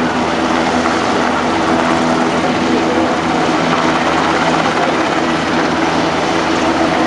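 Helicopter flying on a display pass: a steady, loud drone of rotors and engine with several steady low tones through it.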